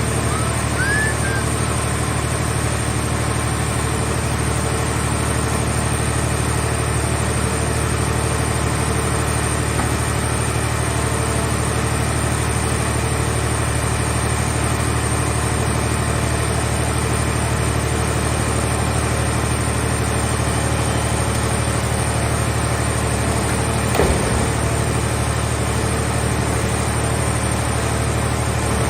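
Scrap car baler's power unit running steadily with an even engine-like hum, and a single knock near the end.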